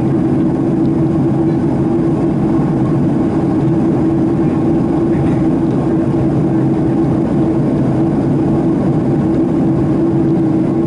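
Boeing 767-300ER jet airliner heard from inside the passenger cabin: a steady engine and airflow rumble with a constant hum.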